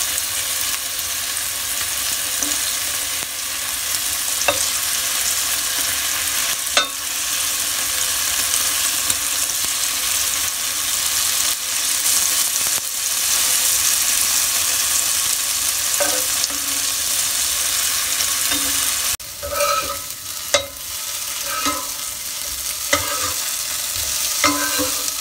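Spice-coated paneer cubes sizzling in shallow oil in a nonstick frying pan, with occasional taps and scrapes of a steel spatula turning them. About two-thirds of the way through the sizzle drops abruptly, and the spatula scrapes and taps come more often after it.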